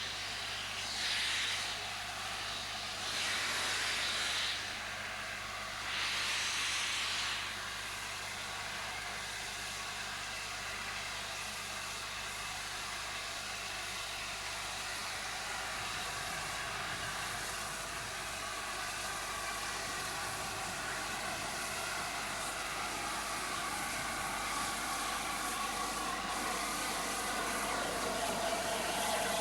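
Gresley A4 Pacific steam locomotive working, with three short bursts of steam hiss in the first seven seconds or so. After that comes a steady running noise that grows a little louder near the end.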